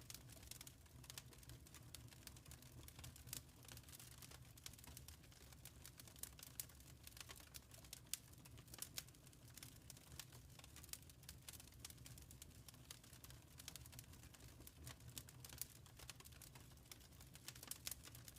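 Wood fire crackling softly: many small irregular pops and snaps over a steady low rumble of the burning fire.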